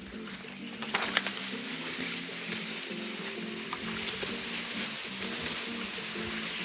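Food frying in a pan, a steady sizzle that starts about a second in, with a few light clicks of a utensil stirring. Background music with sustained notes plays underneath.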